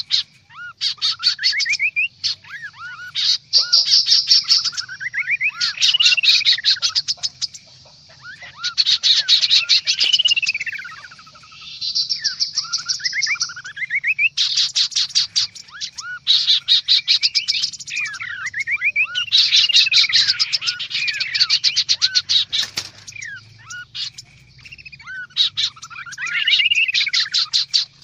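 Kaso-kaso birds calling noisily, several at once: bursts of rapid chattering trills about one to two seconds long alternate with curving whistled notes that rise and fall. It is a bird-lure (pikat) recording, with a faint low hum underneath.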